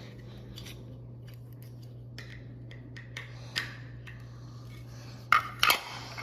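Plastic parts of a snap-together model airliner being handled and pressed together: faint rustling and small clicks, then two sharp, loud clicks close together near the end as pieces knock or snap into place. A low steady hum runs underneath.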